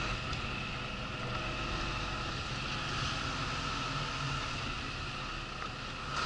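Steady engine and road noise inside the cab of a Renault 26-tonne rigid lorry on the move, an even rumble and hiss with a faint steady whine.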